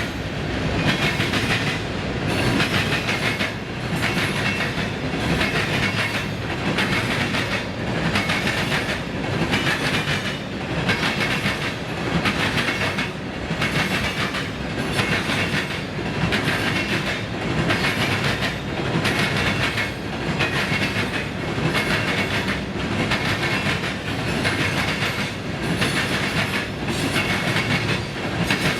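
Freight train cars rolling past, their wheels clattering in a steady rhythm that repeats about every second and a half.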